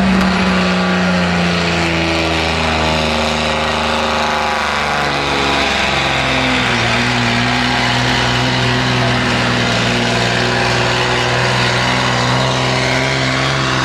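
Diesel truck engine running hard under load during a sled pull. Its pitch slides down about four to five seconds in, then holds steady and loud.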